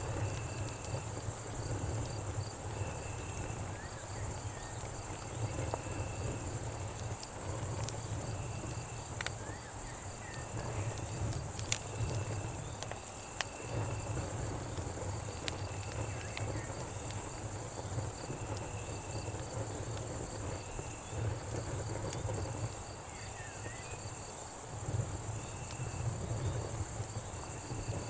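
Night insect chorus: a steady high-pitched drone of cicadas and crickets, with a cricket chirping in short trains about every two seconds. A few sharp campfire crackles sound near the middle, over a low rumble.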